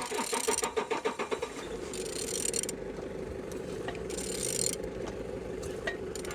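Used 10V74 engine being turned over: a quick rhythmic clatter for about the first second and a half, then a steady hum, with short bursts of hiss on top.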